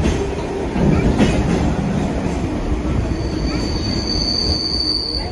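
Suburban commuter train running, heard from inside the carriage: a steady rumble and rattle of the wheels on the track. A thin, high-pitched wheel squeal sets in about three seconds in and holds.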